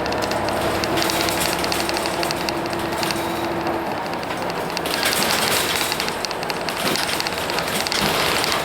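Hino Blue Ribbon City bus with its P11C 10.5-litre diesel engine running, with a fast, steady clatter. A steady whine stops about four seconds in.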